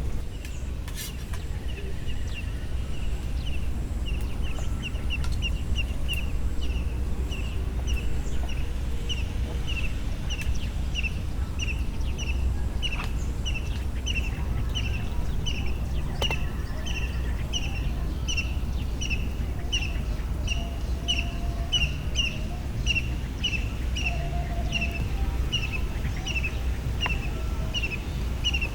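A bird calling with short, high chirps repeated evenly about two to three times a second, a little faster in the first few seconds, over a steady low rumble.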